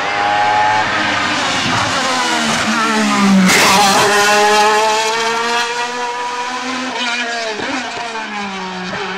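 Hill-climb race car engine at full throttle, revving high and changing up through the gears, loudest about three and a half seconds in as it goes by.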